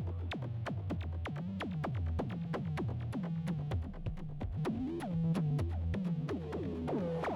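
Yamaha AN200 virtual-analog synthesizer playing a sequenced electronic pattern: a rapid, even run of short notes, many sliding sharply down in pitch as they start, over a repeating bass line.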